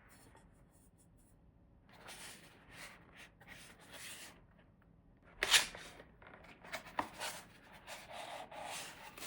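Close handling noises: irregular rubbing and rustling strokes, with one sharp click about five and a half seconds in.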